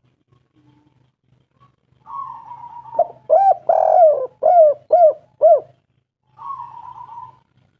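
Spotted dove cooing: a soft, rolling purr about two seconds in, then a run of about six louder, arched coos, and another purring coo near the end.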